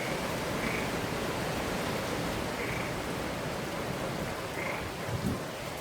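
Steady rush of Hurricane Irma's wind and rain, with a frog calling in short notes about every two seconds.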